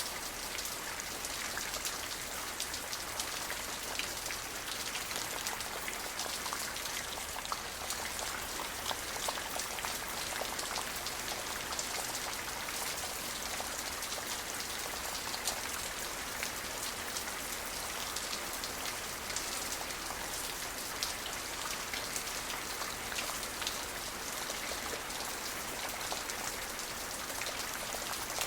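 Steady rain falling, a dense even hiss of drops pattering on a surface with many small individual drop ticks; no thunder.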